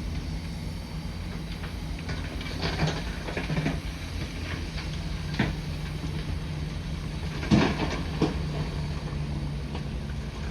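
Bulldozer's diesel engine running steadily under load, with a few sharp metallic clanks and knocks, the loudest about three quarters of the way through.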